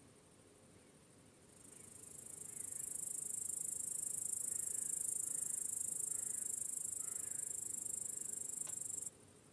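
A cricket's very high-pitched continuous trill, swelling in over about a second and a half, holding steady, then stopping abruptly near the end, over a faint low background hiss.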